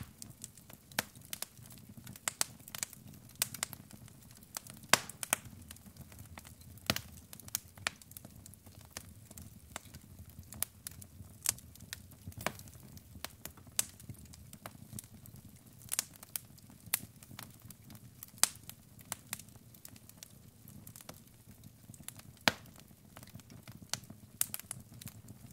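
Wood fire burning in a fireplace: irregular sharp crackles and pops from the logs, several a second, over a low steady rumble of the flames.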